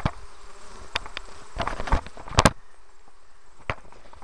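Honeybees buzzing around an open hive, with several sharp knocks and clicks of handling on top, the loudest a quick pair about two and a half seconds in.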